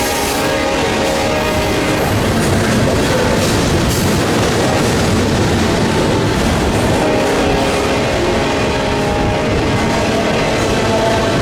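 A freight locomotive's multi-chime air horn sounds a steady chord that ends about two seconds in, over the rumble of a passing freight train and gusty wind on the microphone.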